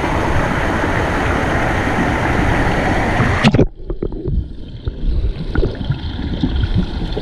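A pool waterfall pours and splashes with a steady rushing noise. About three and a half seconds in there is a splash, and the sound turns suddenly muffled and dull, as heard underwater, with gurgling and bubbling.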